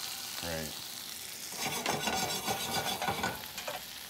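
Gnocchi sizzling in hot foaming butter in a frying pan, with scraping and clicking from about one and a half seconds in as they are stirred around the pan.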